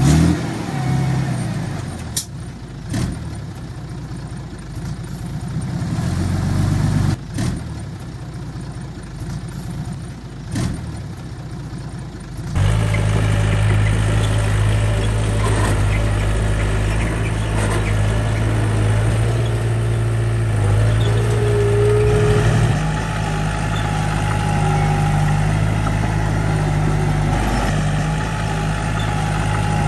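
Diesel engines of heavy construction machinery running, with a few sharp knocks in the first part; about twelve seconds in, a louder, steady engine takes over.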